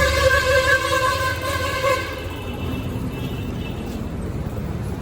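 A vehicle horn blows one steady, unwavering note for about two seconds, then stops, leaving the low rumble of street traffic.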